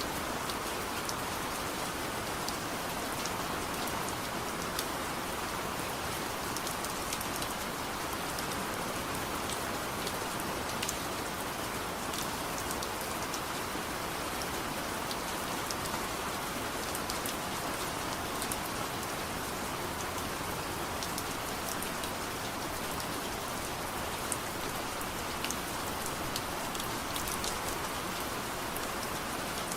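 Steady soft rain falling, an even hiss with many scattered light ticks of single drops.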